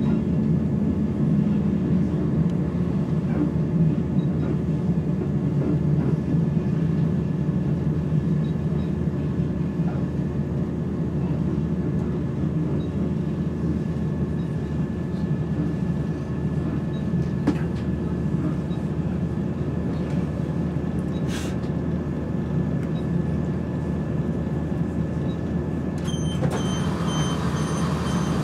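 Interior of a Class 170 Turbostar diesel multiple unit under way: a steady running rumble with a thin, constant high whine over it, whose cause the uploader is unsure of. Near the end a rapid high beeping starts.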